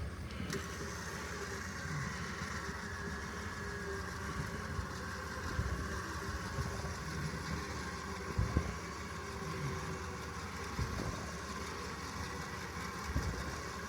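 Vehicle engine idling steadily with a faint steady whine over it, during a winch pull on a stuck truck. A few light knocks, the loudest about eight and a half seconds in.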